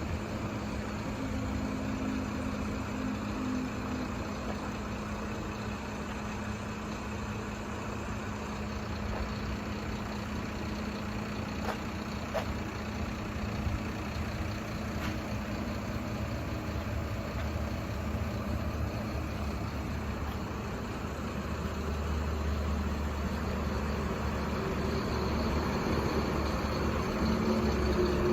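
Truck engine idling steadily, its low rumble growing louder about three-quarters of the way through.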